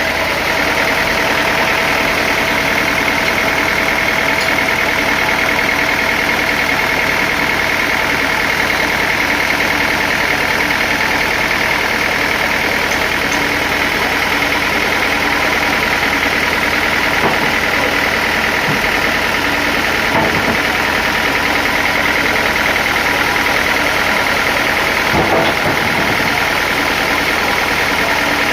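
Sawmill machinery running steadily, with a constant engine-like hum and a high steady whine and no pauses.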